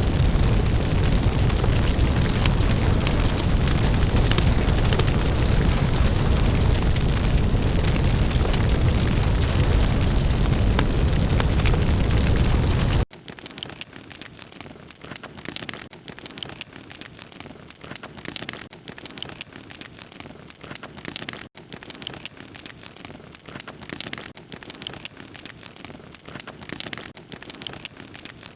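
A large mass of burning matches, roaring loudly and steadily in a blaze. About halfway through it cuts off abruptly to a much quieter stretch of soft crunches repeating about once or twice a second.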